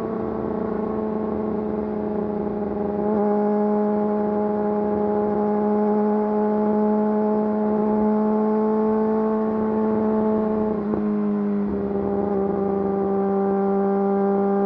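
Yamaha YZF-R6's inline-four engine through an Akrapovič full exhaust system, running at a steady, fairly high engine speed. Its pitch shifts slightly about three seconds in and again near the end.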